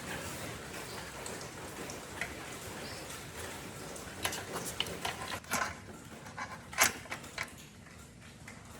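Small clicks and knocks of tools and parts being handled, scattered from about four to seven and a half seconds in, the sharpest about seven seconds in, over a steady low hiss.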